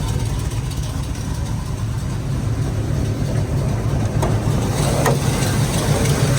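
Classic Pontiac Grand Prix's V8 idling steadily, with the choppy idle of an aggressive camshaft. A couple of faint clicks are heard about four and five seconds in.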